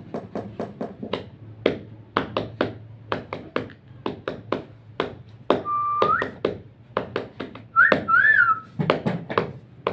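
Quick, even tapping on a surface, kept up as a steady beat. Two short whistles come a little past the middle: a held note that rises at its end, then a louder one that rises and falls.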